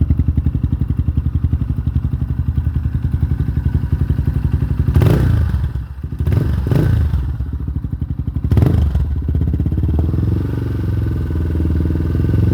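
Yamaha Scorpio's single-cylinder four-stroke engine, breathing through an R9 Mugello aftermarket exhaust. It idles with an even, pulsing beat, is blipped three times about five to nine seconds in, and then settles back to idle.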